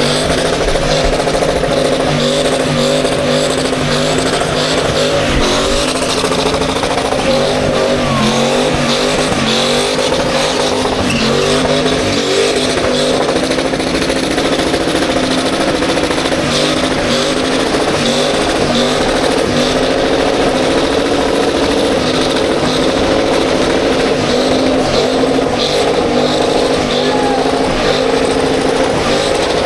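Car doing a burnout: the engine is held at high revs, its pitch wavering up and down, over the steady hiss of spinning tyres.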